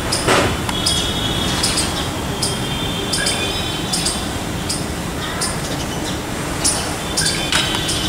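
Small birds chirping in short, high calls, several a second, over a steady low rumble.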